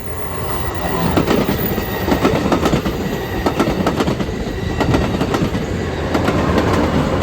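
Amtrak Capitol Corridor passenger train passing close by, its wheels clacking over the rail joints amid a steady rumble. The sound swells over the first second and begins to ease near the end.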